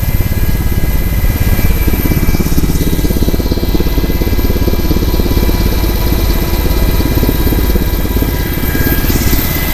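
An engine running steadily, a loud low rumble that holds level throughout.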